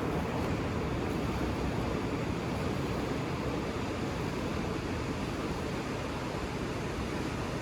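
Ocean surf heard as a steady, even rush of noise, with no single wave breaking out of it.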